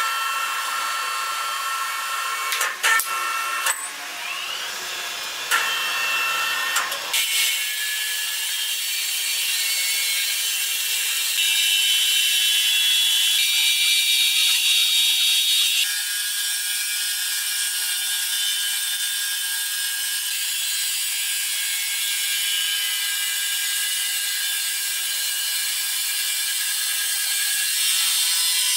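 Sawmill machinery running: a series of sharp knocks and clatter, then from about seven seconds a steady high whirr with a faint whine.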